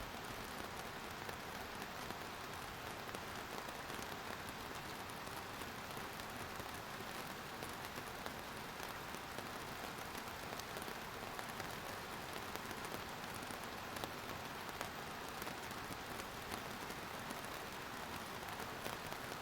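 Steady rainfall on a surface: an even hiss of rain with many small drops pattering, no change in intensity.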